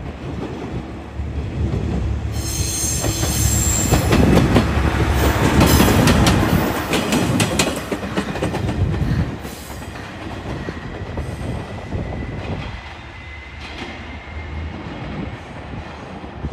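A train running past on the tracks, its wheels squealing high about three seconds in and then clicking over rail joints as the rumble peaks near the middle, before fading away.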